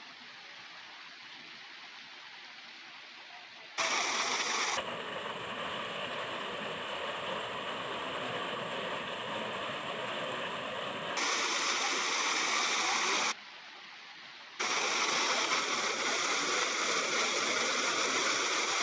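Rushing water of a waterfall: a steady wash of noise. It jumps abruptly between quieter and louder several times, quieter for the first few seconds and again briefly past the middle.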